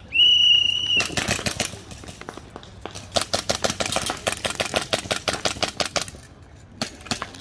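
A shrill whistle blast lasting about a second, then rapid clicking shots from the players' toy guns, coming thick at about eight a second for three seconds before thinning to a few.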